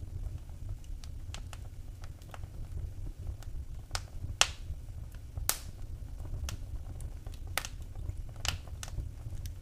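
Wood fire in a fireplace crackling: irregular small pops and clicks, with a few louder snaps about four and a half, five and a half and eight and a half seconds in, over a low steady rumble.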